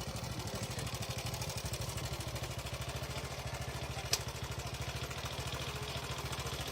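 Motorcycle engine running steadily with an even, rapid low putter. There is a single sharp click about four seconds in.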